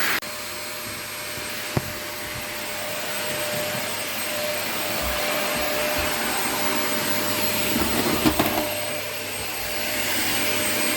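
Vacuum cleaner running steadily. Its level drops suddenly just after the start. There is a single click a couple of seconds in, and a short cluster of knocks about eight seconds in.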